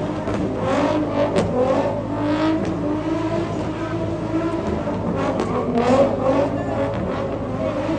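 Car engines running and revving, several at once, with pitch that rises and falls irregularly.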